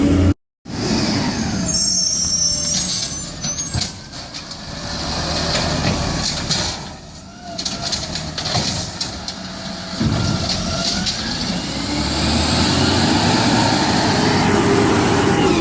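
Garbage truck running, with air brake sounds. The loudness rises and falls, swelling again near the end.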